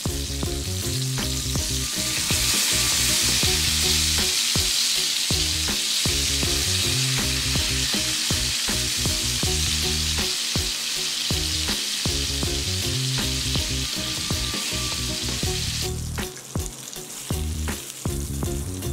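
Spiced chicken breast pieces sizzling in hot butter and oil in a frying pan, loud and steady from about two seconds in, then dropping away suddenly about sixteen seconds in. There are a few clicks from the metal spatula turning the pieces.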